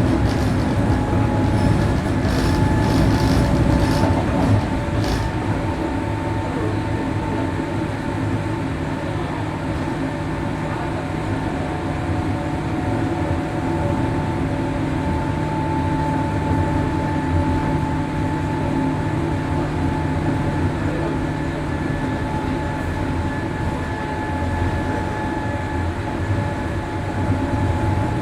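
Onboard running sound of a 103 series 1500-subseries electric multiple unit at steady speed: a constant drone of wheels on rail with a steady motor and gear whine. There are rapid light clicks during the first few seconds.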